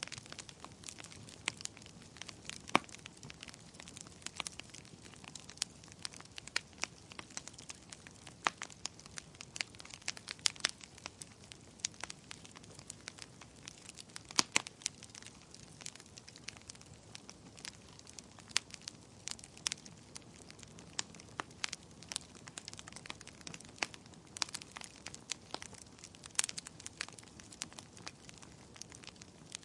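Wood fire crackling and popping: many sharp, irregular pops over a faint steady hiss.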